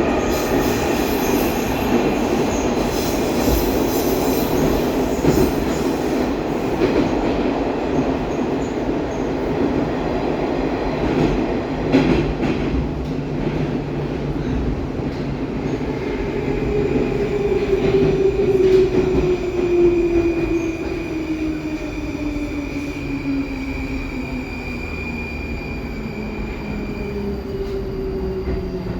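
Baltiets metro train running through the tunnel, heard from inside the car: a dense rumble of wheels on rails. About halfway through, an electric motor whine sets in and slides steadily down in pitch while the rumble eases, as the train brakes into a station.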